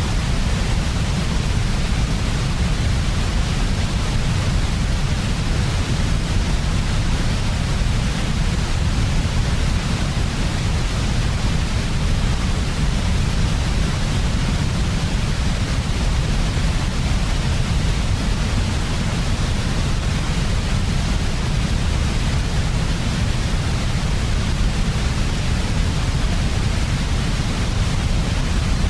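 Steady synthetic white noise for infant sleep, unchanging throughout, heaviest in the low end with a fainter hiss above.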